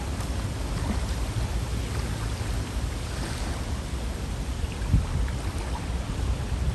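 River water flowing: a steady rushing with a deep low rumble, and a brief low thump about five seconds in.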